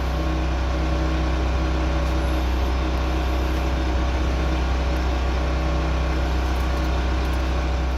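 Steady, unchanging low mechanical hum, like a motor or fan running continuously.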